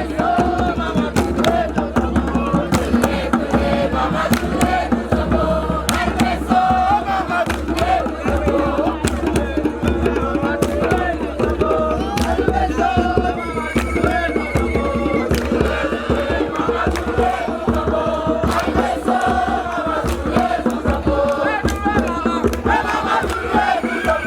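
A group of voices singing a chant together over fast, steady percussion strikes, with a low hum underneath.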